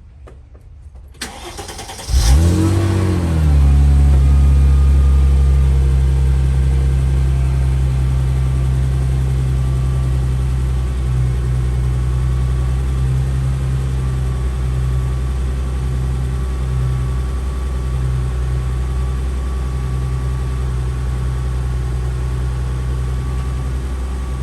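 2001 Mercedes-Benz SLK320's 3.2-litre V6 starting from cold. About two seconds in, the starter cranks briefly and the engine catches with a short rev flare. It then settles into a steady, loud cold-start fast idle that eases off slightly over the following twenty seconds.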